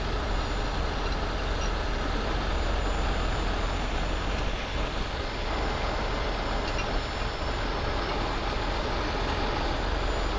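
Heavy truck diesel engine running steadily, a constant low rumble under a broad hiss.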